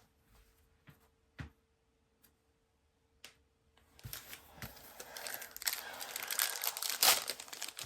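A few soft, isolated clicks of cards being handled, then from about four seconds in a trading-card pack's wrapper crinkling and tearing as it is opened, growing louder near the end.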